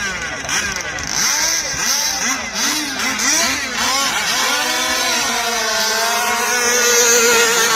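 Small two-stroke engines of radio-controlled Thai long-tail racing boats, more than one at a time, their pitch rising and falling over and over for the first few seconds, then settling into a steadier, higher-pitched run through the second half.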